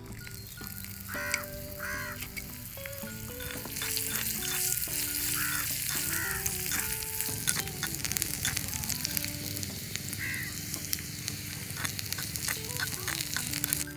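Chopped onion and green chili sizzling as they fry in a tiny clay pot, the sizzle swelling from about four seconds in. A small metal spoon clicks against the pot as the mixture is stirred.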